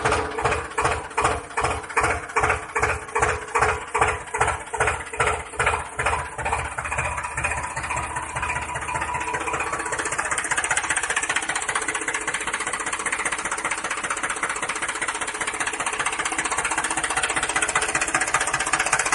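Tractor engine running with a slow, regular throb of about two pulses a second, which smooths out after about seven seconds into a steady running sound.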